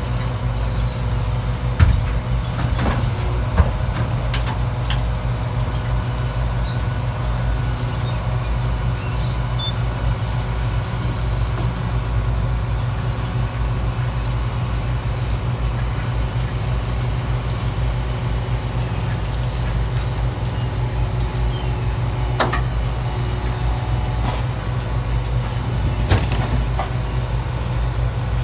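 Garbage truck's diesel engine running steadily with a low rumble, with a few sharp clanks along the way, about two seconds in, twice near the end.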